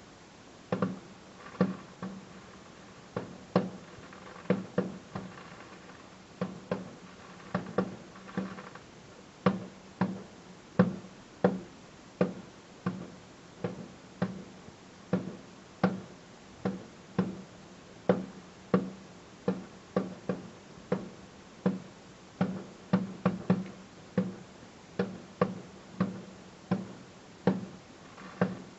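Firework shells bursting overhead in a steady, uneven series of sharp bangs, about one a second. There are a few quicker runs of several bangs, and each bang has a short booming echo.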